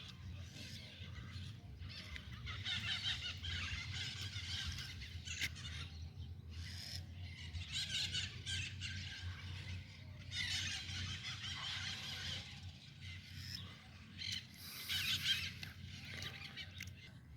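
Birds calling in several bursts of rapid, high notes, each lasting a second or more, over a low steady rumble.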